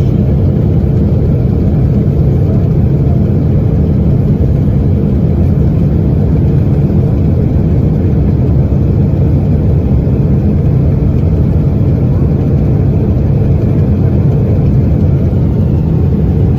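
Airliner jet engine noise heard from inside the cabin: a loud, steady low rumble that does not change.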